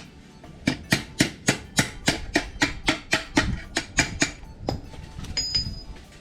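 Hammer striking a steel sheet-metal panel to shape it, about fifteen sharp metallic blows at three to four a second that stop near the end, followed by faint high ringing from the metal.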